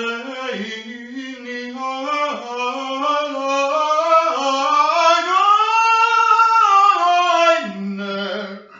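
A single unaccompanied voice singing a long, drawn-out melody. The pitch climbs slowly over several seconds, then sinks back low near the end before stopping.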